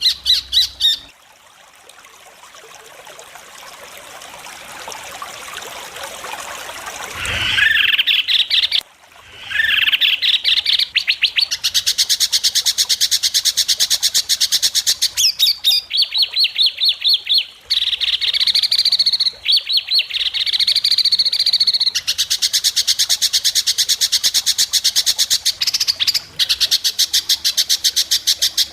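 White-rumped shama (murai batu) singing. First a harsh rasping call swells in loudness over several seconds, then come fast runs of repeated high notes, about five a second, broken by brief pauses.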